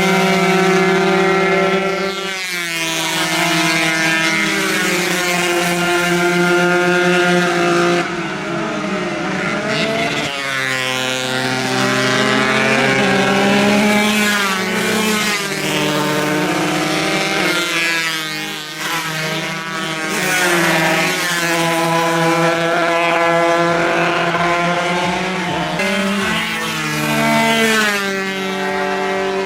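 Two-stroke 140 cc racing motorcycle engines at full throttle, their notes climbing in pitch through the gears with sharp drops at each shift, several times over.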